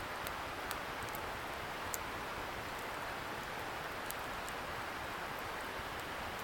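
Wood campfire crackling, with irregular sharp pops, the loudest about two seconds in, over the steady rushing hiss of a river some way off.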